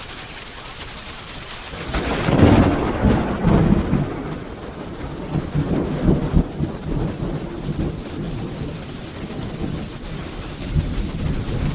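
Steady rain falling, then a loud rumble of thunder about two seconds in that rolls on in waves and slowly fades, with a second swell a few seconds later.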